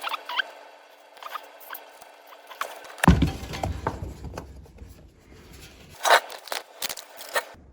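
Hands working on a tube tester's parts: a run of small clicks and rattles, a heavy knock about three seconds in, then scraping and a few sharp clicks near the end.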